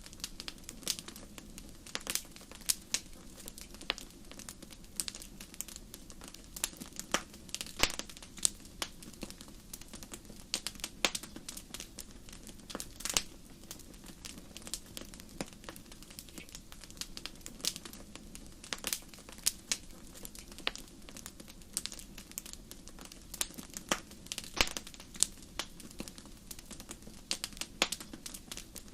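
Wood fire crackling in a fireplace: frequent sharp irregular pops and snaps over a low steady hiss of the flames.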